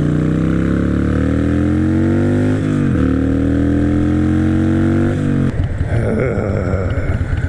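Harley-Davidson Iron 883's V-twin engine accelerating, its pitch rising through the gears with two upshifts, about two and a half and five seconds in, then easing off to a lower, rougher rumble near the end.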